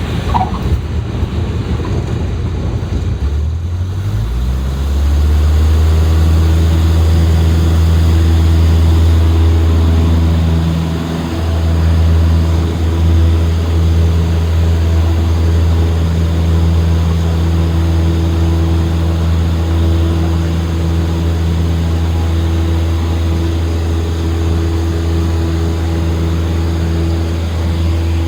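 Cessna 152's four-cylinder Lycoming engine and propeller: a rush of air noise with the engine low, then about four seconds in the engine pitch rises as the throttle is opened to full power for the go-around. It then runs steadily at full power through the takeoff and climb.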